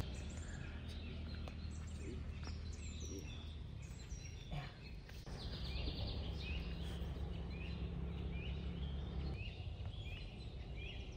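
Birds chirping with short, repeated calls, about two a second in the second half, over a low steady rumble that stops near the end.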